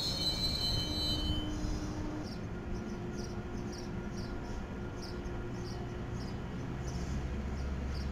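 Metrolink commuter train's wheels squealing high-pitched on the rails, the squeal dying away about a second and a half in. It gives way to the low rumble of the slowly rolling train, with faint short high squeaks repeating about twice a second.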